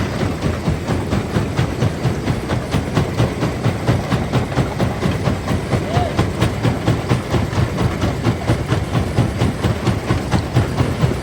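Large primary jaw crusher running and crushing rock: a steady heavy mechanical rumble with a rapid, regular knocking, about four to five knocks a second.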